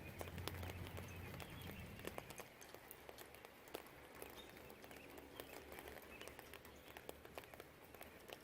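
Light rain, with scattered drops ticking sharply on nearby surfaces. A low distant rumble fades out about two seconds in, and faint birdsong sits behind.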